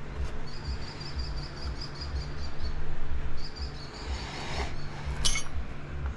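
A bird trilling, with rapid repeated high chirps in two runs, over a steady low rumble, and a single sharp click about five seconds in.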